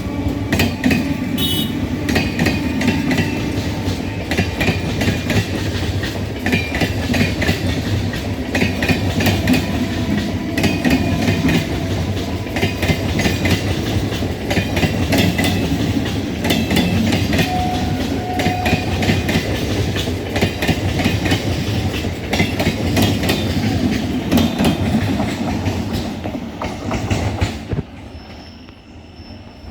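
Electric multiple unit (EMU) suburban local train running past close by, its wheels clacking rhythmically over the rail joints. The noise drops away near the end as the train moves off.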